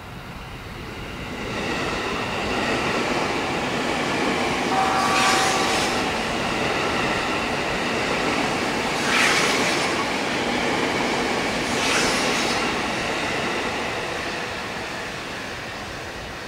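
Electric passenger train running past on the rails and into a tunnel: a steady rumble of wheels that builds up, holds and then fades. Three short, higher hissing surges of wheel noise come about five, nine and twelve seconds in, with a brief squeal near the first.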